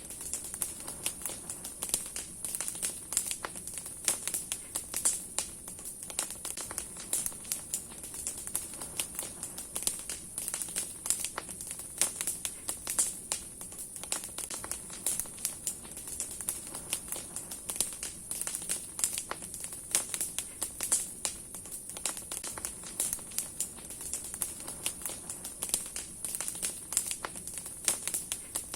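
Large wood bonfire burning, its branches and logs crackling with frequent, irregular sharp pops over a steady high hiss.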